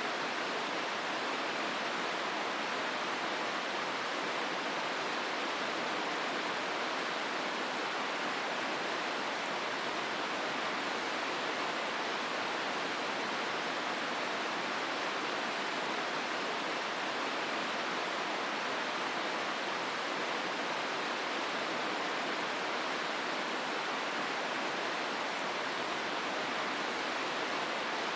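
The Hozu River rushing steadily through the gorge, an even, unbroken water noise.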